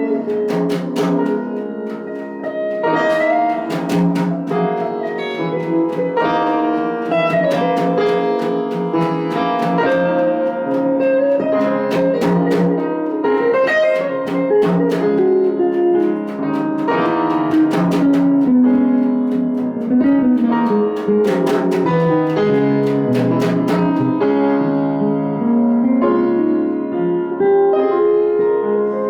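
Instrumental jazz band playing: piano and guitar over a drum kit, with a melody line that slides between notes.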